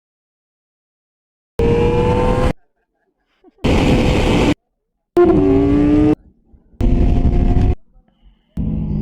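Four short, hard-cut snippets of loud high-revving performance engines, each about a second long with silence between them; in one the pitch rises and in another it falls. Near the end a steadier, lower engine sound starts up and keeps running.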